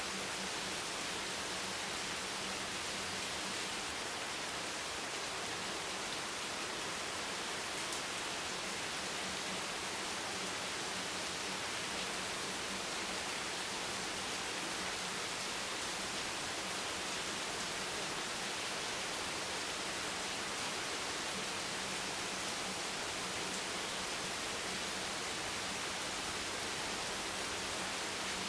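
Steady, even rain hiss, a continuous wash with no distinct drops or thunder standing out.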